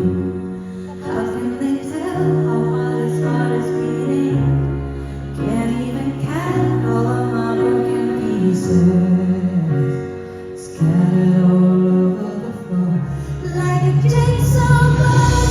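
A live ballad: a woman singing over band accompaniment with sustained low bass notes, her voice gliding between held notes.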